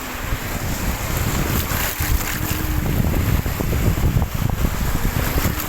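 Wind buffeting the microphone in gusts: a loud, uneven low rumble.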